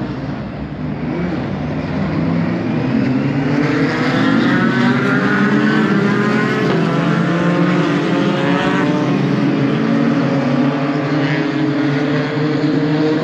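A pack of racing pickup trucks running past on a slow green flag lap, several engines at once whose pitches slide up and down as they go by, loudest in the middle.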